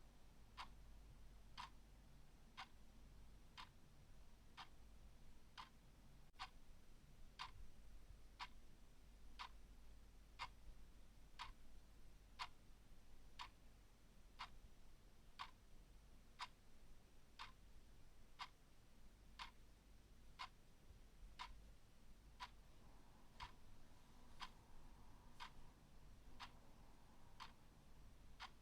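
Mechanical clock ticking steadily and faintly, about one tick a second.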